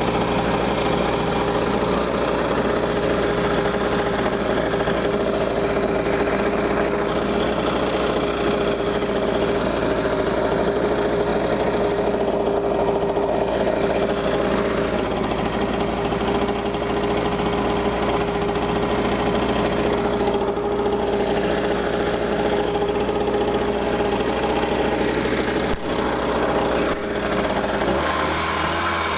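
Small petrol engine of a homemade cart running steadily, with a shift in its note about a second before the end.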